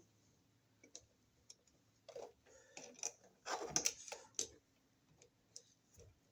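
Light, scattered clicks and scrapes of a bare copper ground wire being bent and wrapped around a wall receptacle's green ground screw. The handling is busiest about three and a half to four and a half seconds in.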